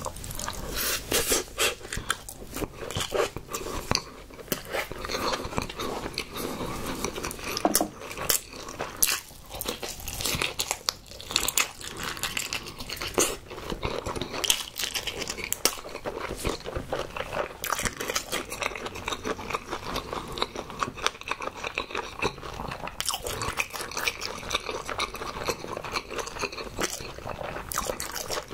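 A person chewing mouthfuls of crab bibimbap close to the microphone: a dense, continuous run of small mouth clicks and biting sounds.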